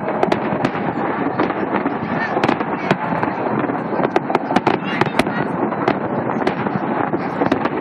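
Fireworks going off: a dense, continuous crackle of many sharp pops and cracks in quick succession over a steady din.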